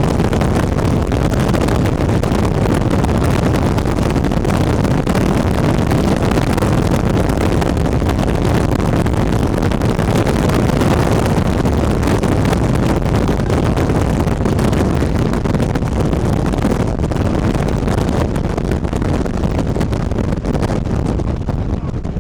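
Strong wind buffeting the microphone: a loud, steady rushing rumble, heaviest in the lows, easing slightly near the end.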